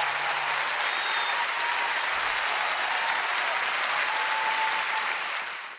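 Audience applauding after a live song, with a couple of high whistles; the band's last low note dies away in the first half second, and the applause fades out near the end.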